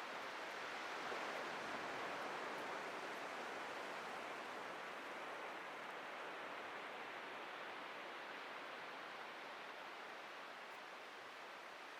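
Ocean surf washing ashore in a steady hiss that swells about a second in and slowly fades over the rest.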